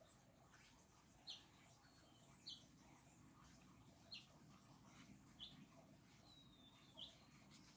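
A bird chirping faintly, five short high chirps spaced about a second and a half apart, over a quiet outdoor hush.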